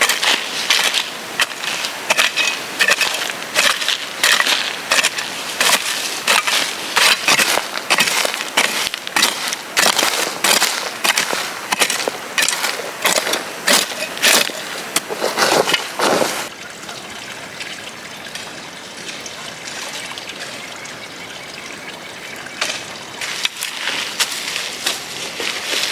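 Irregular, dense crunching and crackling, many short sounds close together, which drops to a soft steady hiss about two-thirds of the way through and picks up again near the end.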